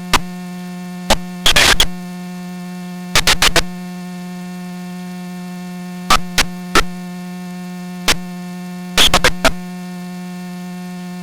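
Steady electrical hum on the aircraft's radio and intercom audio, broken by irregular static clicks and short bursts of crackle, some single and some in quick clusters.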